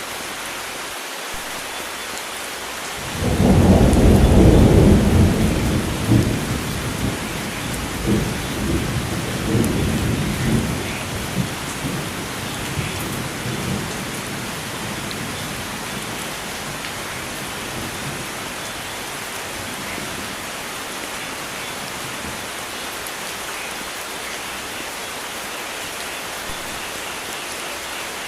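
Steady rain, with a thunderclap about three seconds in that rumbles and rolls in swells for about ten seconds before fading back under the rain.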